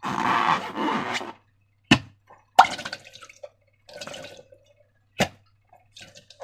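Wet, sticky slime squelching, with a few sharp popping clicks.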